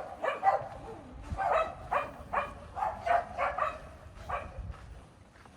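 Dog barking repeatedly, about two barks a second, growing fainter and stopping shortly before the end.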